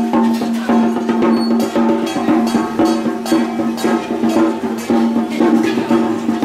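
Taiwanese temple-fair drum troupe playing Madou-style drums: rapid, evenly driven drum and percussion strikes over a steady held melodic tone.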